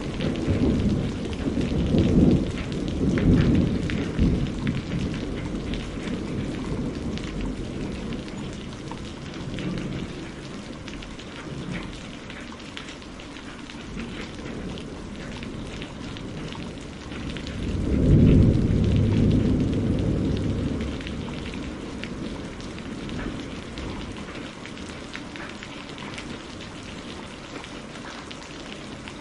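Steady rain pattering, with rolling thunder: a rumble dying away over the first few seconds and another building about 18 seconds in, fading by about 21 seconds.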